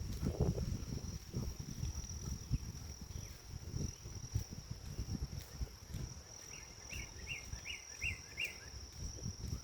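A steady, high-pitched insect trill runs throughout, over irregular low thuds of footsteps on a forest path. About two-thirds of the way in, a bird gives a quick run of five chirps.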